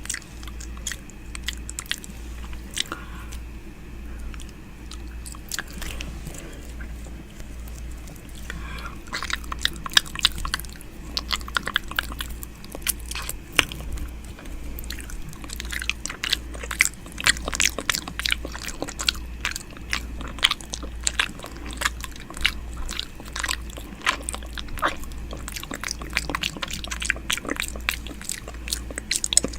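ASMR 'ear eating' mouth sounds made close to the microphone: wet smacks, licks and sharp mouth clicks in an uneven stream that grows busier about a third of the way in. A steady low hum sits underneath.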